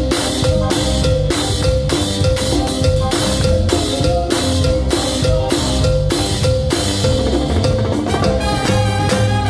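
A Latin band plays with timbales and drums beating a steady rhythm of about three strokes a second, over a bass line and a held note.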